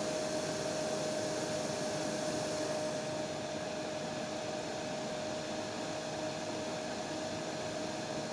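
Hair dryer running steadily: an even rush of air with a steady hum tone, the top end turning a little duller about three seconds in.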